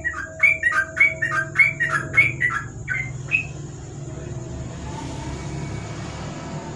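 Yellow-vented bulbul (trucukan) singing a quick run of bubbling, falling two-part notes for about three and a half seconds, then stopping.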